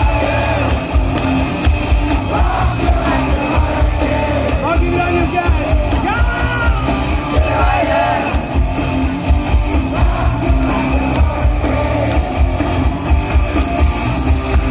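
Hard rock band playing live, with a male lead singer over distorted electric guitars and a steady drum beat.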